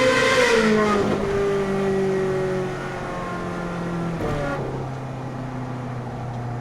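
Ferrari 458 Spider's V8 engine running under way. Its pitch drops sharply twice, about half a second in and again about four and a half seconds in, as it shifts up a gear, and holds fairly steady in between.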